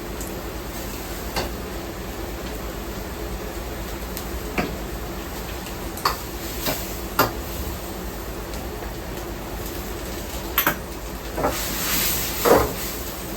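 Ramen shop kitchen at work: scattered clinks and knocks of dishes, pots and utensils over a steady hum. A short hiss rises about twelve seconds in, and the loudest knock follows just after it.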